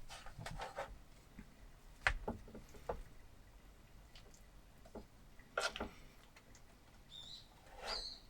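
Scattered light clicks, taps and brief rustles of small objects being handled, with a couple of louder knocks about two and six seconds in.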